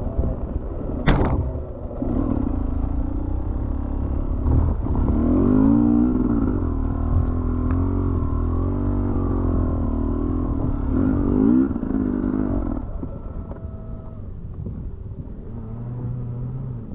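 Enduro dirt bike engine running and revving up and down, its pitch climbing and dropping twice, with a sharp knock about a second in.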